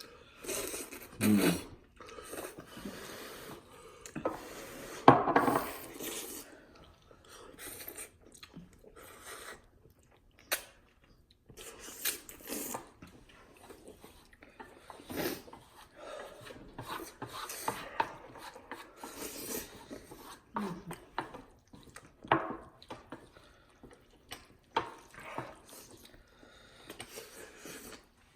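Greedy, noisy eating of cheesy ramen noodles: irregular bursts of slurping and open-mouthed chewing, the loudest about five seconds in, with a few short vocal noises.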